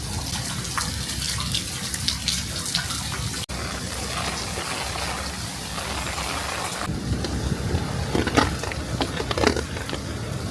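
Heavy rain falling steadily, with scattered sharp ticks of drops striking nearby surfaces. It cuts out for an instant about three and a half seconds in, and changes character a little near seven seconds.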